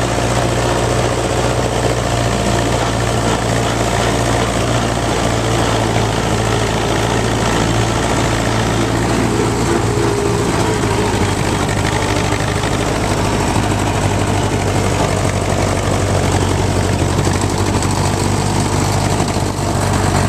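Fordson Super Major tractor's four-cylinder engine running steadily, with a low, even drone. It is running poorly, which the owner puts down to a bad fuel filter.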